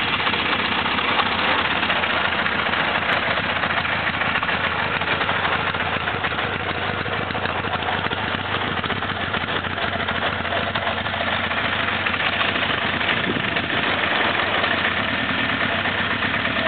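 1982 Honda CB900F's air-cooled inline-four engine idling steadily, seconds after a cold start at about freezing.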